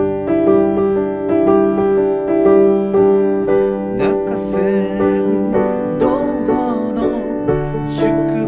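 Piano playing the accompaniment of an ondo-style Japanese folk dance song in steady, repeated chords, with a wavering higher melody line joining about halfway through.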